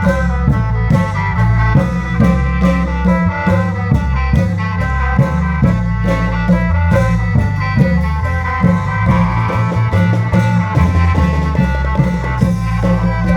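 Isan klong yao long-drum ensemble playing, with a sustained reedy khaen melody and drone over regular drum strokes.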